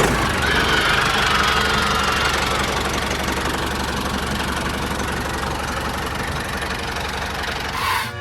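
An engine running steadily, with a dense rattling noise and a faint whine, cutting off suddenly near the end.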